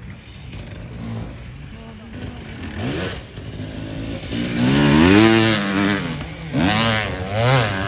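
Engine of an off-road racing vehicle on a motocross course, revving up and dropping back twice. It is loudest about five seconds in.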